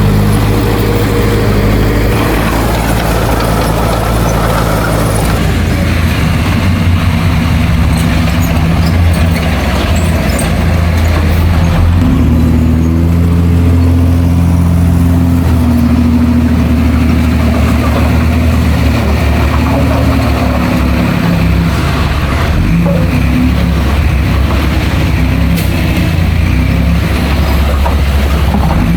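Heavy diesel engine of earthmoving machinery running continuously, its low pitch shifting a couple of times as the load changes.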